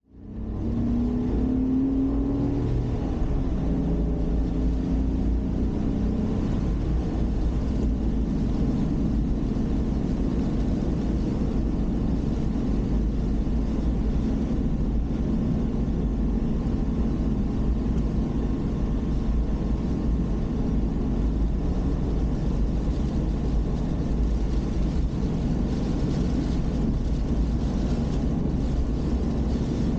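Car's own engine and road noise heard from inside the cabin through a dashboard camera: a steady low rumble, with the engine note rising in the first few seconds as the car pulls away.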